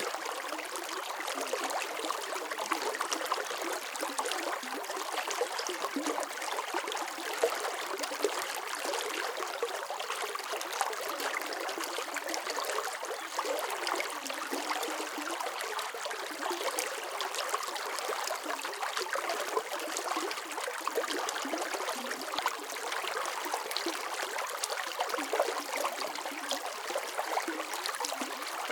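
Running water flowing steadily, a continuous splashing, bubbling wash of a stream with many small droplet-like crackles.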